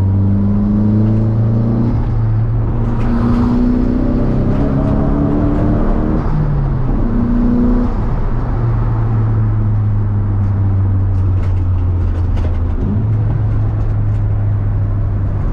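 Nissan S13's turbocharged SR20DET four-cylinder engine running hard, its pitch climbing several times as it pulls, over a steady low drone.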